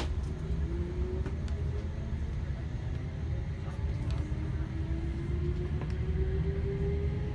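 Electric commuter train running, heard from on board: a steady low rumble from the wheels and track, with a motor whine that rises twice in pitch as the train picks up speed, and a few light clicks.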